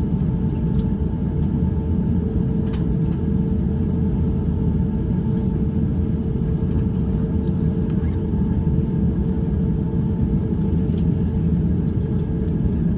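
Cabin noise of an Airbus A350-900 on the ground before takeoff: a steady low rumble from its Rolls-Royce Trent XWB engines at low power, with a constant hum and a few faint clicks.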